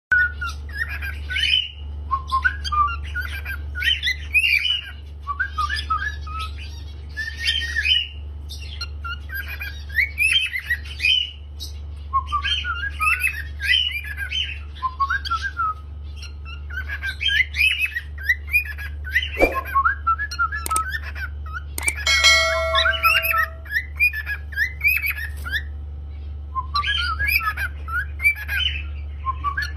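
Cockatiel singing in rapid chirping, warbling phrases repeated every few seconds, over a steady low hum. About 22 seconds in a short steady tone with overtones sounds.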